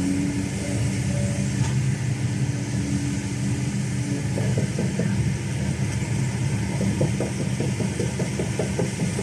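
Kobelco SK210LC excavator's Hino J05E-TG diesel engine running steadily. A faint steady tone rides over it for the first four seconds, then a run of light clicks follows.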